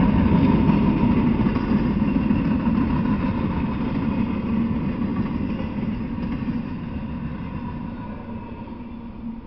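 Freight train's cars rolling past on the rails: a steady rolling noise with a faint ringing tone, fading away as the last cars go by.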